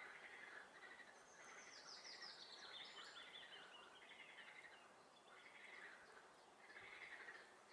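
Faint chorus of swamp frogs calling in repeated bursts. About a second in, a songbird sings one trill that steps down in pitch.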